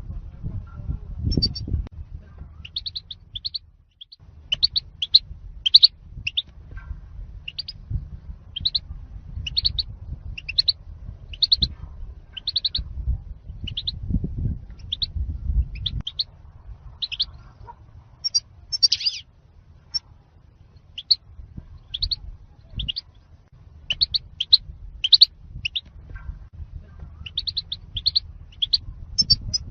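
European goldfinch calling in short, high chirps, about one or two a second, over a low rumble.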